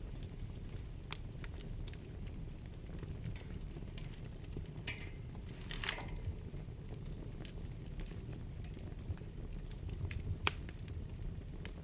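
Wood fire burning in a fireplace: a low steady rumble of flames with scattered sharp crackles and pops. There is a brief hiss about five seconds in and a louder pop near the end.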